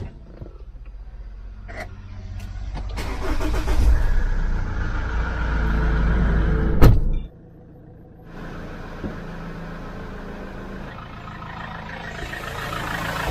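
Car engine running, growing louder over the first several seconds. A sharp click comes about seven seconds in, after which the sound drops abruptly and then builds steadily again.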